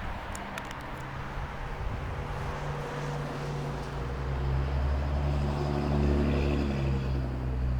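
A motor vehicle's engine droning steadily, growing louder over a few seconds and then dropping away near the end.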